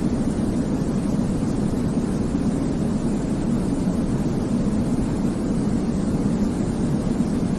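Steady, deep rumbling noise of a baby-sleep white-noise track, heavy in the low end and thin in the highs, with no changes in level.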